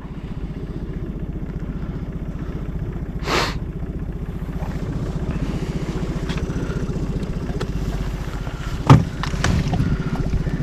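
Small boat's motor running steadily at low speed with an even, rapid pulse. A loud sharp knock about nine seconds in.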